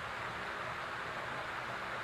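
Backyard fountain's water falling and splashing into its basin, a steady even hiss with no breaks.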